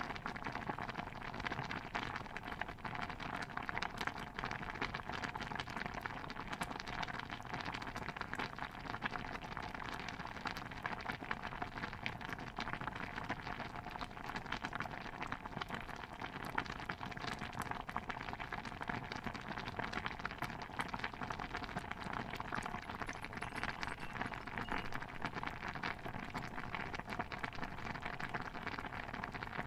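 A pot of stew bubbling steadily at a boil, a dense run of small pops and gurgles with no pause.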